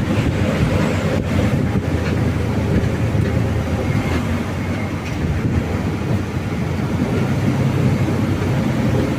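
Mitsubishi Fuso diesel truck running along the road, a steady, even rumble of engine and road noise.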